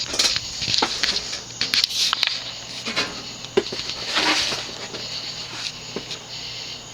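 Codep (View Fan) ceiling fan running on medium speed, its motor giving a steady low hum. Scattered irregular clicks and rustles over the first four seconds or so, then the hum continues more evenly.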